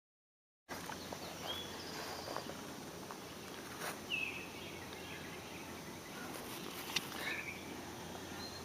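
Outdoor ambience: a steady background hiss with a few short bird chirps, silent for the first split second.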